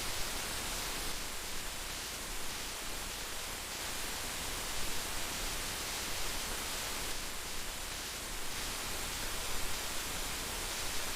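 Heavy rain falling steadily: a dense, even hiss of raindrops.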